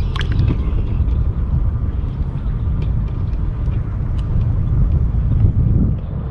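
Steady low rumble of heavy highway traffic, with a few faint light ticks over it.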